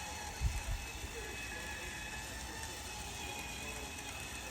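Quiet room tone: a steady faint hum and hiss, with two soft low thumps about half a second in.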